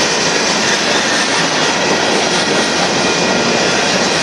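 Freight cars of a Union Pacific merchandise train, covered hoppers and tank cars, rolling past a grade crossing: the steady, loud noise of steel wheels running on the rails.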